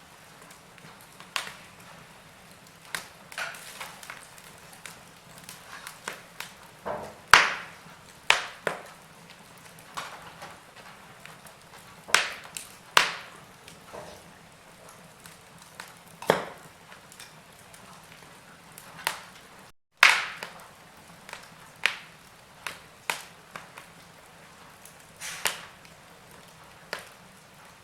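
Wood fire in a fireplace crackling: irregular sharp pops and snaps, a few of them loud, over a soft steady hiss.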